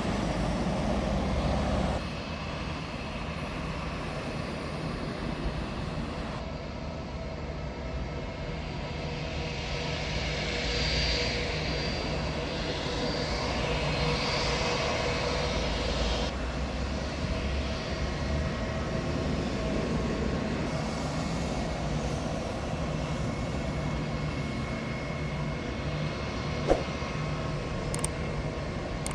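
Airbus A321-231's twin IAE V2500 turbofan jet engines running, a steady noise with a whine that grows stronger for several seconds in the middle, then settles. A sharp click sounds near the end.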